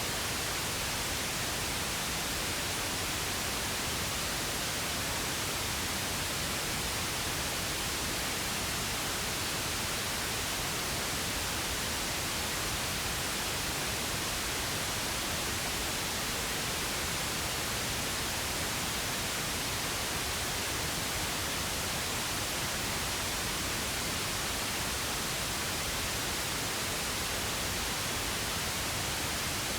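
Pink noise: a steady, unchanging hiss spread evenly across the whole range, with no events or variation.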